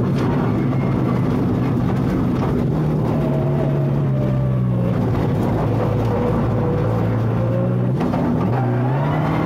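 Rally car engine heard from inside the cabin, running hard over a steady rushing noise. The engine note sinks slowly through the middle, then climbs again near the end as the car accelerates.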